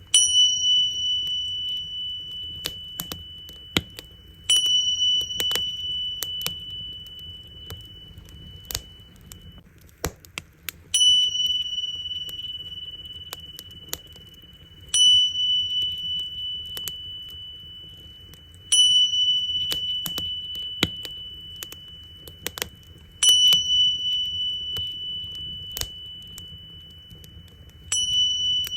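Tingsha cymbals struck together seven times, about every four seconds, each strike a high clear ring that fades slowly. Between and under the strikes a wood fire crackles with sharp pops.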